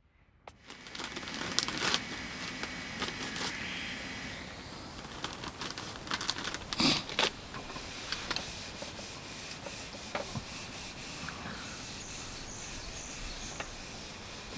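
Steady rustling and rubbing noise that starts about half a second in, with scattered knocks and clicks, the loudest a little past the middle. Faint bird chirps near the end.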